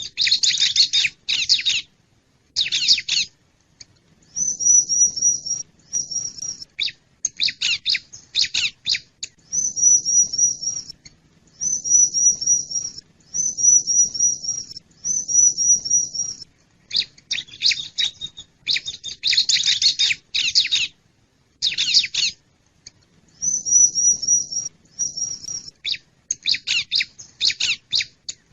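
Bar-winged prinia (ciblek) calling: clusters of sharp, scratchy chirps alternate with runs of rapid, evenly repeated high notes, each run about a second long, with short pauses between.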